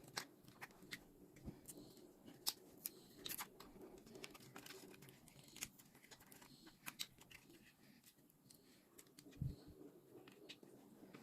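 Faint scattered clicks and small taps of parts being handled during the teardown of a Gamma+ Skin, with a brief low thump near the end.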